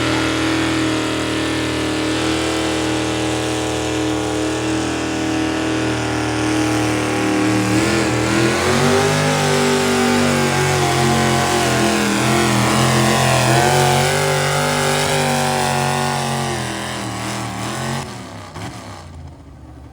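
Pulling vehicle's engine running hard at high revs. Its pitch sags and climbs back twice as it works, then it drops off and shuts down near the end.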